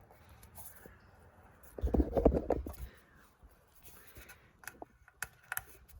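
Light scraping and rubbing as the new exhaust pipe is handled and looked over, louder for about a second around two seconds in, followed by a few sharp clicks near the end.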